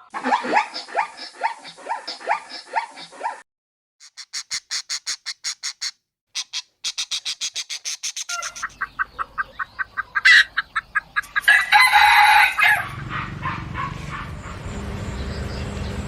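A run of short bird calls, most likely chickens: quick repeated falling calls, then trains of evenly spaced clucking pulses, then a louder call about twelve seconds in, with a low rumble underneath near the end.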